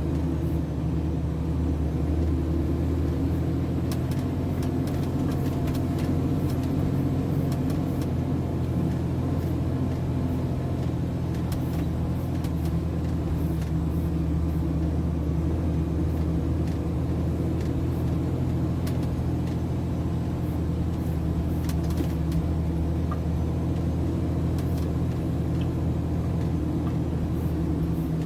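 MAN TGS 33.480 truck's diesel engine running at a steady, even drone.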